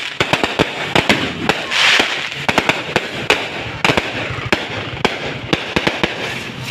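Fireworks going off: a dense, irregular run of sharp cracks and bangs over a crackling hiss, with a louder crackling swell about two seconds in.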